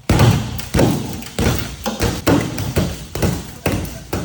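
A run of heavy thumps and knocks, about two a second at uneven spacing, each dying away quickly.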